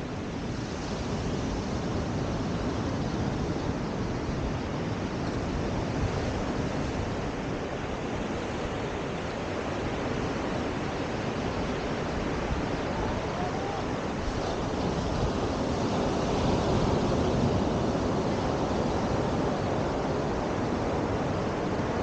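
Steady rush of surf and wind on a beach, swelling a little about two-thirds of the way through.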